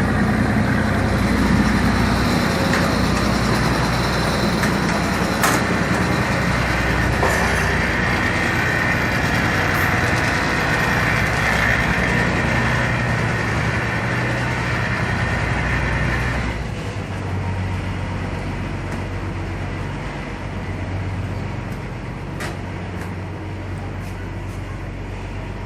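Steady vehicle running noise, a low engine hum under a broad rumble, which eases noticeably about two-thirds of the way through.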